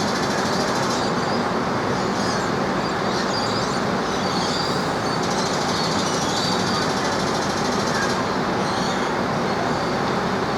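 An engine running steadily, an even mechanical rumble with no change in level.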